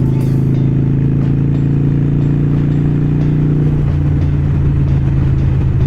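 Harley-Davidson Iron 883's air-cooled V-twin engine running steadily under way, heard from the rider's helmet. The engine note shifts about four seconds in.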